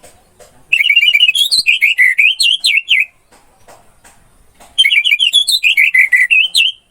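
Orange-headed thrush singing: two loud phrases of rapid, twisting whistled notes, each about two seconds long, with a short pause between them.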